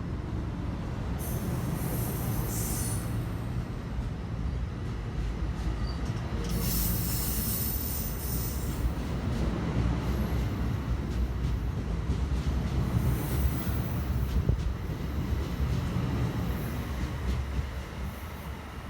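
Passenger train running past on the track: a steady low rumble of wheels on rail, with several bursts of high-pitched squeal or hiss from the wheels coming and going, fading slightly near the end.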